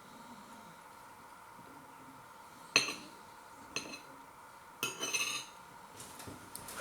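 Cutlery clinking and scraping against a dish of pasta as a mouthful is scooped up. There is a sharp clink a little under three seconds in, another about a second later, then a quick run of clinks around five seconds, over a faint steady hum.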